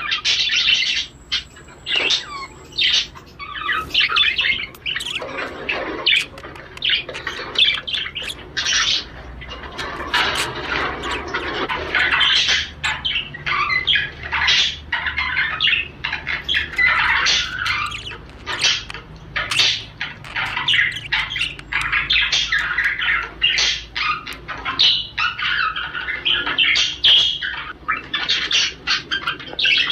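Male budgerigar warbling and chattering without pause, a rapid jumble of chirps, clicks and harsh squawks. This is the budgie's courtship warble, a sign the male is in breeding condition.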